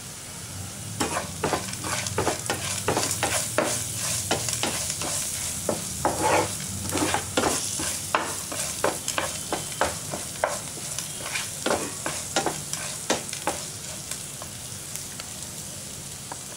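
Chopped onion, green chilli, curry leaves and ginger-garlic paste sizzling in hot oil while a wooden spatula stirs them, scraping and tapping against the pan many times, the strokes thinning out in the last few seconds.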